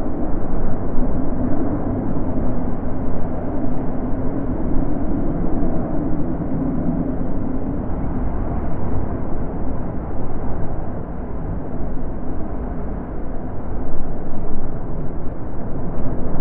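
Wind blowing in gusts: a low rushing noise that rises and falls in strength, swelling again a couple of seconds before the end.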